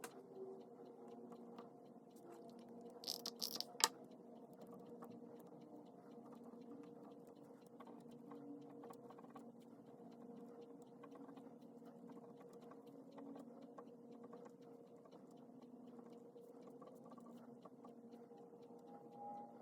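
Pen writing on paper: soft scratching and small ticks of handwriting, with a brief run of louder clicks about three seconds in, over a low steady hum.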